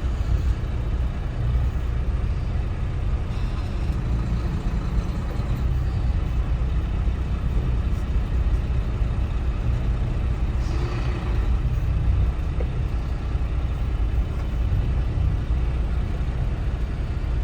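Steady low rumble of a heavy truck's engine and road noise, heard from inside the cab while driving in traffic.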